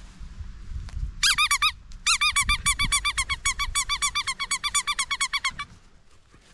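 Rubber squeaky dog toy squeaked over and over in quick succession, about eight squeaks a second: a short run about a second in, then a longer run of about three and a half seconds.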